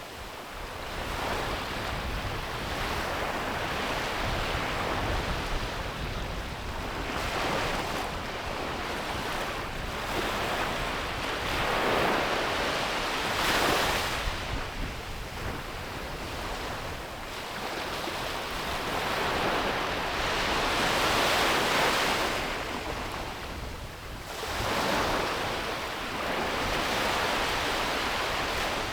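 Ocean waves breaking on a beach, the surf swelling and washing back every few seconds, with some wind on the microphone.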